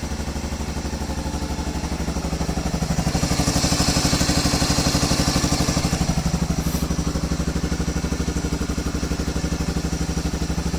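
Old Honda ATV engine running at a steady, evenly pulsing idle just after a cold start. It is the machine that is hard to start when cold. About three seconds in, the engine grows louder and harsher for a few seconds, then settles back.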